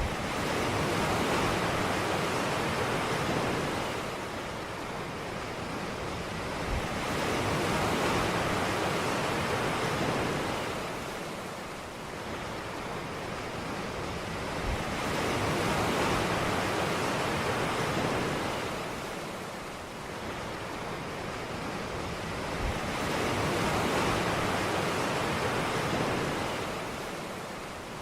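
Ocean waves breaking on a beach, each wash of surf swelling and falling away about every eight seconds.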